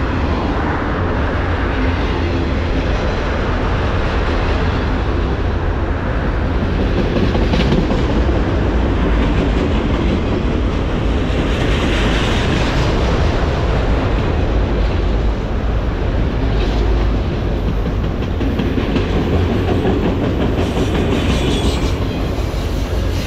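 Norfolk Southern freight train's cars rolling past in a steady heavy rumble, with wheels clattering over the rail joints. Brief swells of louder, higher-pitched rattle come every few seconds.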